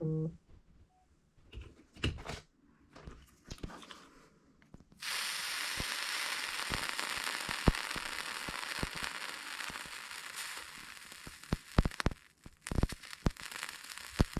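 Wiring and plastic interior trim being handled inside a car: scattered clicks, knocks and crackling. A steady hiss starts suddenly about five seconds in and fades out later, and a few louder knocks come near the end.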